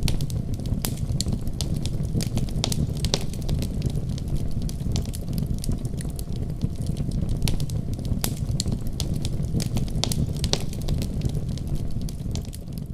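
Wood fire crackling in a fireplace: irregular sharp pops and snaps over a steady low rumble, beginning to fade near the end.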